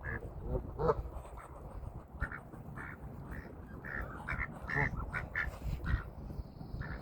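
Ducks quacking in a rapid run of short, overlapping calls.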